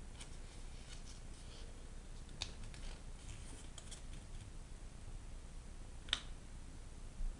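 A sheet of origami paper being folded and creased by hand: soft crinkling and scattered light crackles, with a sharper crackle about six seconds in.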